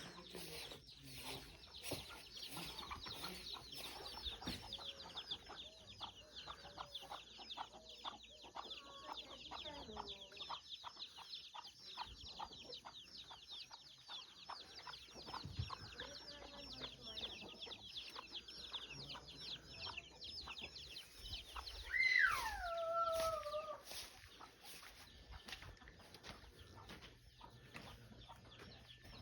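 Chicks peeping constantly in quick, high, falling peeps, with hens clucking lower beneath them. A little over two-thirds of the way through, one adult chicken gives a loud falling call lasting about two seconds.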